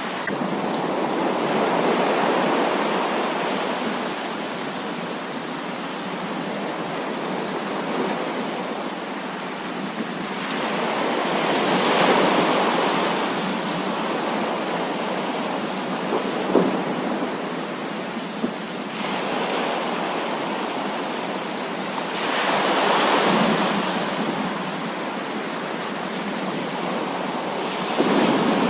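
Heavy rain falling in a steady dense hiss, with rolls of thunder swelling up and fading away about every ten seconds.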